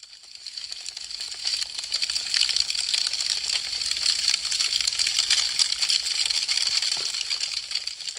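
Burning wood crackling: a dense, continuous run of small sharp pops and snaps. It fades up from silence over the first couple of seconds and fades out again near the end.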